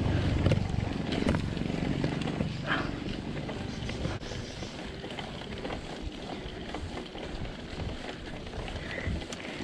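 Mountain bike riding, heard from the rider: rolling noise and wind with scattered clicks and rattles from the bike. A low rumble fades away over the first four seconds.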